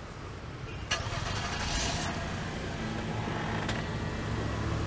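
A car engine: a sharp click about a second in, then the engine running with a steady low hum, and another faint click near the end.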